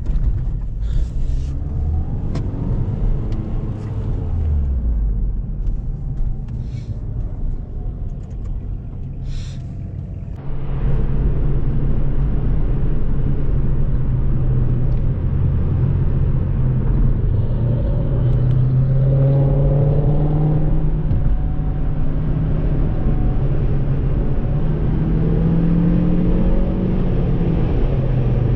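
Car engine and road noise heard from inside a moving car, getting suddenly louder about a third of the way in. The engine pitch rises twice in the second half as the car accelerates.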